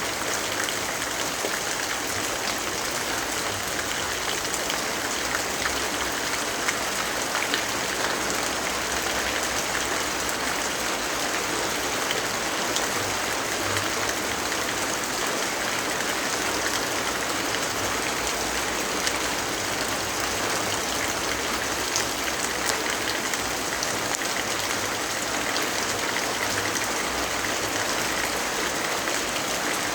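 Steady rainfall: an even hiss of rain with a few faint scattered ticks of drops.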